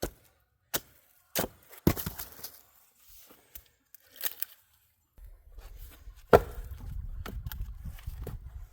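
Fiskars X27 splitting axe chopping hardwood rounds: a series of sharp knocks of the axe biting into the wood and splitting it, the loudest about six seconds in. A low rumble runs underneath from about five seconds in.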